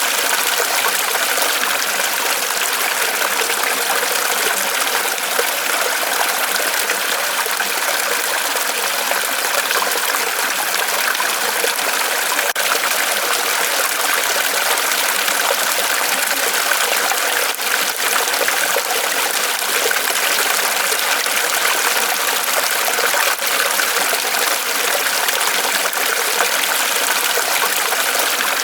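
Small waterfall of water trickling and splashing steadily from a tree trunk, an even, unbroken splashing hiss.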